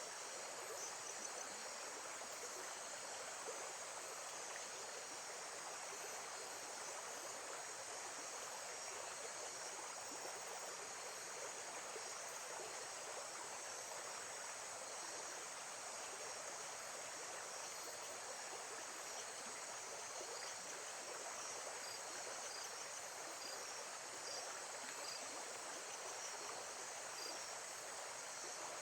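Steady rush of running water with faint, high insect chirps repeating over it, a recorded lakeside nature soundscape.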